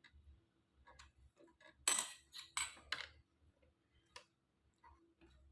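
Light metallic clicks and clinks from small sewing-machine parts being handled and removed by hand, with three sharper ringing clinks close together around the middle.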